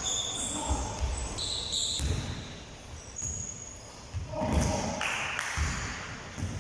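Basketball bouncing on a gym floor: several dull thumps at uneven intervals, with a few short high squeaks.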